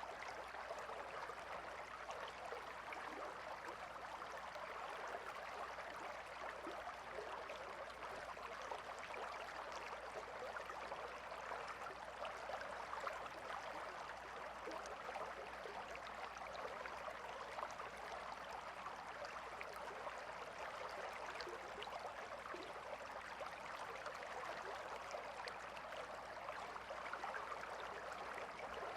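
Calm river flowing: a steady, even rush of water with fine splashing flickers.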